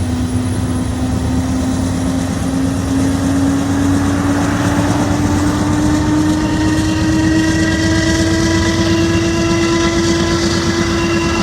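Freight train crossing a long stone-arch railroad bridge: a steady low rumble with a whine that rises slowly in pitch.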